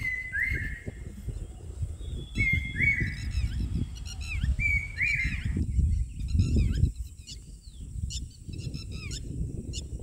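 Wild birds calling: a whistled call is repeated three times in the first six seconds, and shorter, higher chirps follow in the second half. An uneven low rumble runs underneath.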